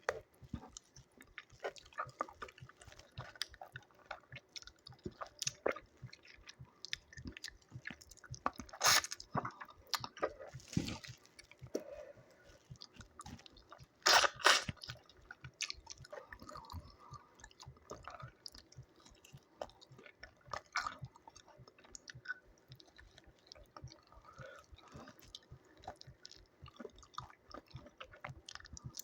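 Close-up eating sounds of a person chewing a meal of doi chicken and rice: steady wet chewing with many small mouth clicks. Two louder bites or crunches come about nine and fourteen seconds in.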